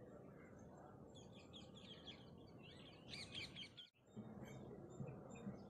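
Faint outdoor background with a run of quick high bird chirps, strongest about three seconds in, which cut off abruptly just before four seconds. Only faint low background noise follows.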